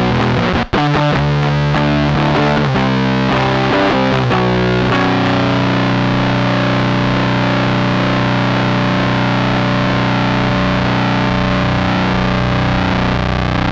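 Electric guitar played through the AC Noises URLA's square-wave CMOS fuzz, which runs at full gain all the time. A few seconds of riffing with a brief cut-out just under a second in, then one fuzzed chord held and sustaining.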